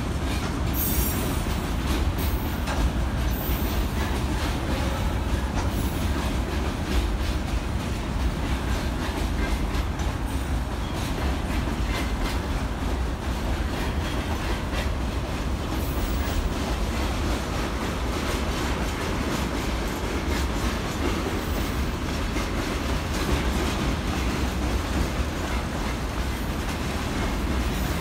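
Freight train wagons (covered hopper cars and tank cars) rolling past in a steady stream, their steel wheels clacking over the rail joints over a continuous low rumble.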